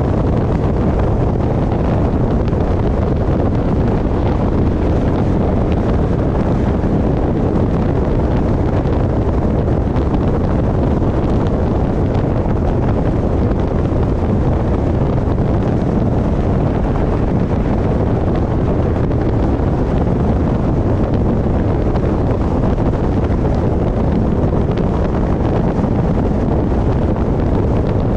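Steady rush of wind over the microphone of a GoPro mounted on the roof of a moving car, heaviest in the low end.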